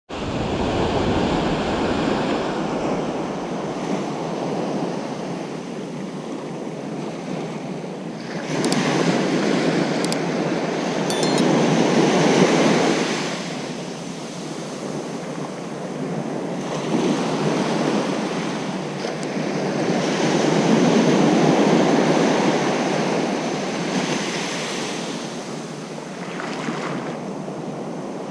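Ocean waves breaking and washing up on a beach, in slow surges that swell and fade every several seconds. There is some wind on the microphone.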